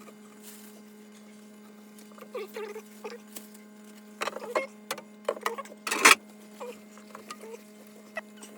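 Scrubbing and wiping inside a plastic fridge interior: short squeaky rubs of a sponge and paper towel come in clusters, with one loud, short scuffing burst about six seconds in. A steady hum runs underneath.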